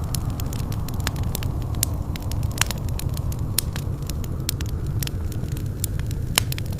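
Wood fire crackling in a fireplace: a steady low rumble of burning with frequent sharp, irregular pops and snaps.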